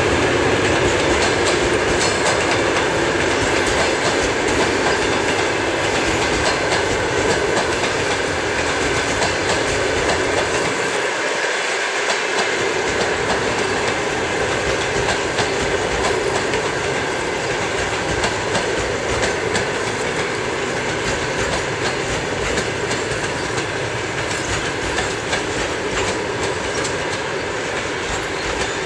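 Passenger coaches rolling past on the rails: a steady wheel-on-rail rumble with repeated wheel clicks, slowly growing quieter as the train draws away.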